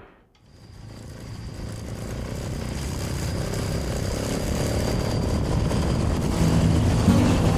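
Small motorcycle being ridden: engine and wind rush fading in from quiet and growing steadily louder, with a low steady hum coming in near the end.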